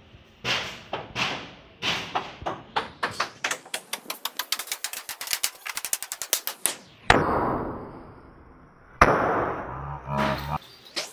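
Hammer blows striking in quick succession, speeding up to about seven strikes a second, then two heavy bangs, each trailing off in a fading rush.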